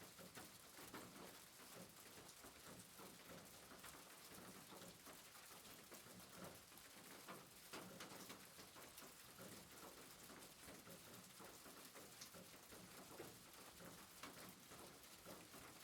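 Faint soft rain pattering, a steady hiss dotted with small drop ticks.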